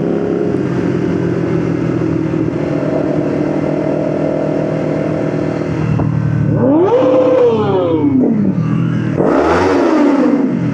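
Motorcycle engine running steadily, then revved twice in the second half, each rev climbing and falling back in pitch.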